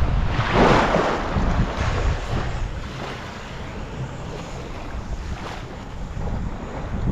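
Wind buffeting the microphone over the wash of waves on the shore. A strong gust about a second in fades down after the first couple of seconds.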